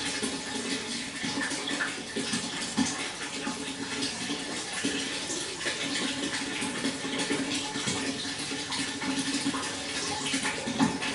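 Water flowing and splashing steadily, a continuous rushing with fine flickering splashes.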